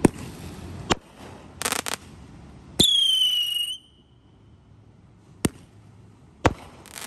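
Fireworks going off: a string of sharp bangs, five in all, with a short crackling burst about two seconds in. About three seconds in comes a whistling firework, a shrill whistle lasting about a second that falls slightly in pitch.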